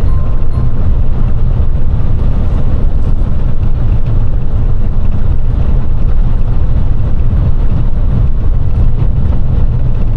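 Semi-truck on the road: a steady low rumble of engine and tyre noise while driving.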